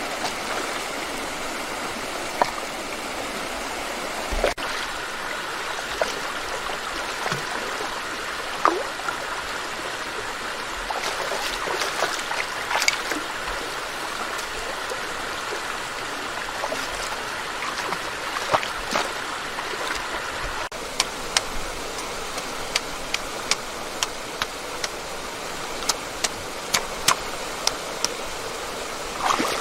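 Flowing stream water, a steady rushing, with scattered short sharp clicks and splashes that come more often in the second half.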